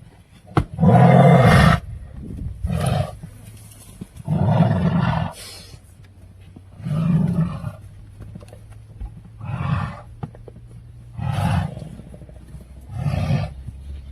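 Lion giving a series of about seven deep calls, the first few about a second long, the later ones shorter and quieter.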